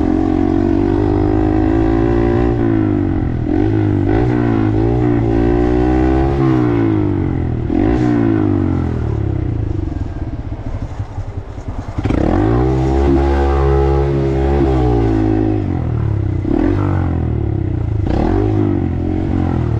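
Small Honda 125 cc single-cylinder motorcycle engine running on the road, its pitch rising and dropping again and again as it accelerates through the gears and shifts. It eases off about ten seconds in, then pulls away strongly again.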